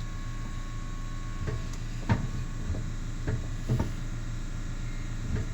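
Sharp metal knocks and clanks, about six, from the exhaust muffler and its hangers being handled and pushed into place, over a steady low hum.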